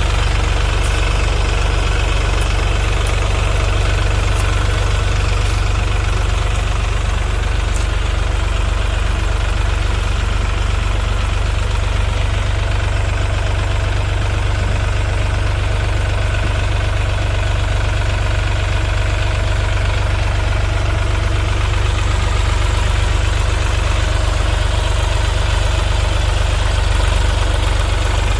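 Sonalika 745 tractor's diesel engine running steadily at a constant low speed, with no change in pitch or load.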